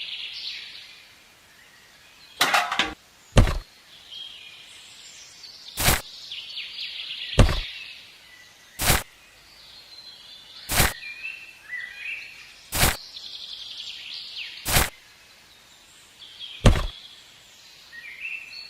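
Sharp knocks, one every one to two seconds, with birds chirping in the background.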